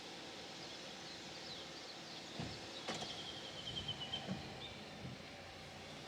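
Outdoor ambience with steady background noise and a small bird calling: a quick run of repeated high chirps about three seconds in, with a sharp click just before it and a few soft knocks.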